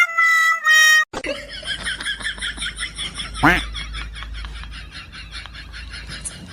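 A short two-note tone opens it, then rapid repeated laughter with a swooping sound about three and a half seconds in.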